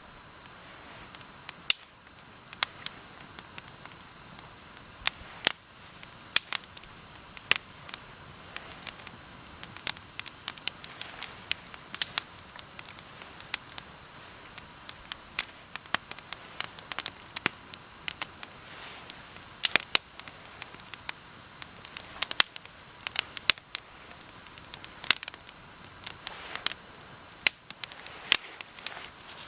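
Campfire of wet, frozen deadwood with thin kindling sticks crackling, with sharp pops at irregular intervals as the kindling burns.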